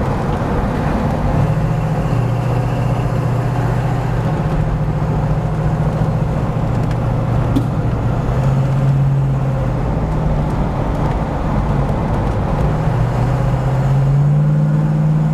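1970 Ford Mustang Mach 1's 351 Cleveland four-barrel V8 pulling the car through corners, heard from inside the cabin. The exhaust note is deep and steady, its pitch dipping and rising a few times with the throttle and climbing near the end, over road and tyre noise.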